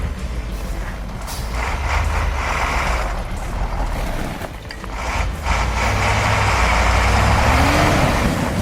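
Heavy truck engine running with a deep rumble, under a broad hiss and a few short knocks, easing off about halfway and then building again.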